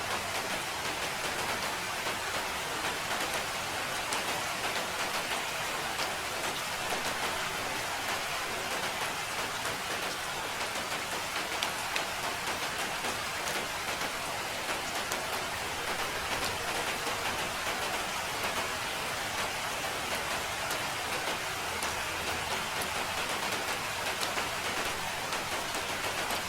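Steady rain falling, with a dense patter of fine drops and no breaks.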